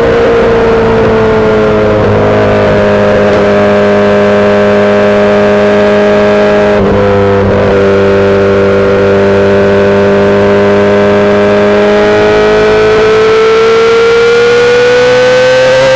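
2008 Yamaha R6's inline-four engine through a full SC-Project exhaust, running under way at fairly steady revs. The revs sag a little at first, there is a brief break in the note about seven seconds in, and the revs climb over the last few seconds.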